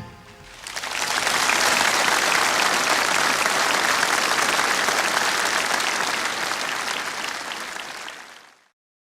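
Audience applauding after a song ends, building up over the first second, holding steady, then fading out near the end.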